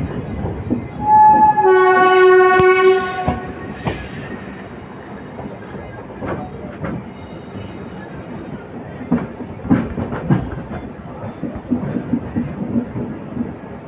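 Train horn sounding: a short toot about a second in, then a longer steady blast of nearly two seconds. After it, the running train with its wheels clacking now and then over rail joints.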